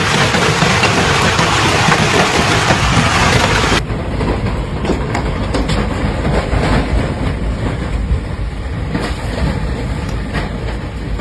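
Hailstorm with strong wind: a loud, even roar of wind and hail for about four seconds, then a sudden change to a duller rumble with scattered sharp hailstone strikes.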